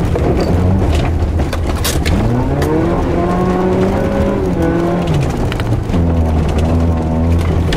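A car's engine heard from inside the cabin, driven hard on a loose rallycross surface. It revs up with a rising pitch, drops at a gear change about five seconds in, then holds steady. In the first two seconds, sharp clicks of loose stones hit the car.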